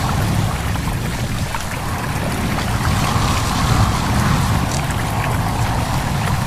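Small stream babbling steadily, with wind blowing through leaves.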